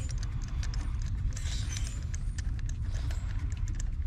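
Spark plug being threaded forward into the cylinder head with a socket and extension: small irregular metallic clicks and handling noise from the tool, over a steady low rumble.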